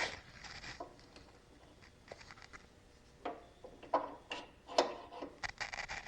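Scattered clicks and light knocks of hand tools and small metal mower parts being handled, with a sharper knock right at the start and a run of clicks in the second half.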